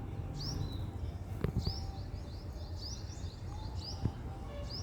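Small birds at a nest chirping: repeated short, high, rising chirps, about two or three a second, over a low background rumble, with two brief knocks.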